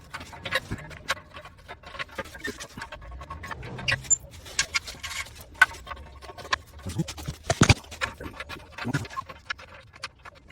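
Hand tools clicking and tapping on metal in a run of irregular light clicks, with a few louder knocks in the second half.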